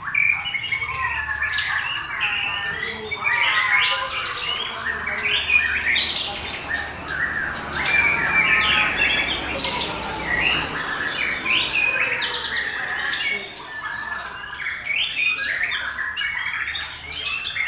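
Several white-rumped shamas (murai batu) singing at once: a dense, overlapping chorus of rapid whistled phrases and trills.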